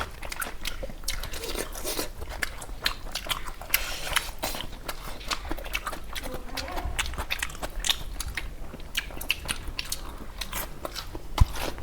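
Close-up chewing of crispy fried chicken: many quick, crisp crunches of the skin being bitten and chewed.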